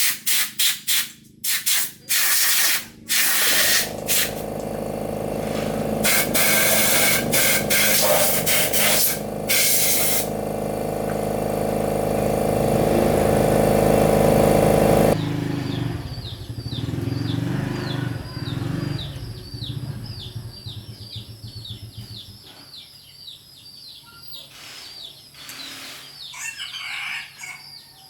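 Short bursts of hissing air, then a motor-driven machine running steadily and slowly growing louder for about eleven seconds before cutting off suddenly. Repeated short bird chirps follow.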